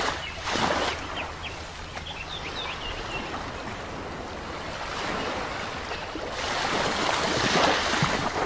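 Sea waves washing onto the shore, with a wave surging about half a second in and a larger one building and breaking near the end. A few short bird chirps in the first few seconds.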